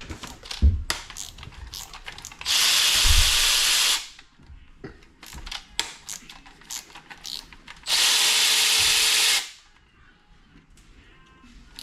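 Compressed-air tool run in two bursts of about a second and a half each, a loud, even hiss of air, used for unbolting parts of an LS engine during teardown. Metal clinks and knocks from tools and parts being handled come between the bursts.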